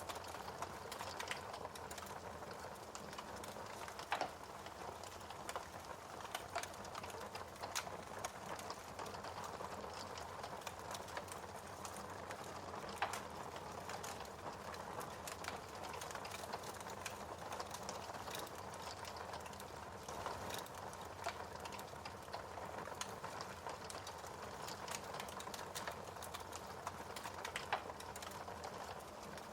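Fire in a fireplace crackling: a steady soft hiss with many small quick pops and a few louder snaps, about four seconds in, near the middle and near the end.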